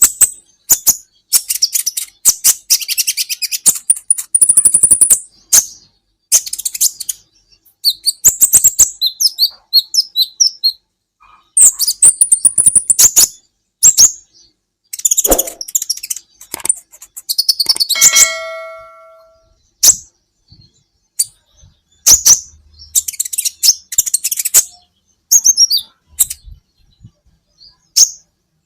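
Olive-backed sunbird (kolibri ninja) singing: bursts of rapid, very high-pitched chirps and trills with short pauses between them. A brief ringing tone sounds once about two-thirds of the way through.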